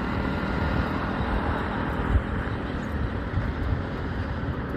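Steady outdoor background noise: a low rumble and hiss with no distinct event.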